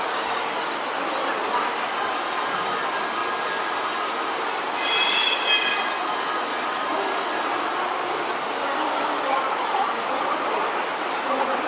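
Radio-controlled model truck running: a steady mechanical whirr with a faint high whine, and a brief squeal about five seconds in.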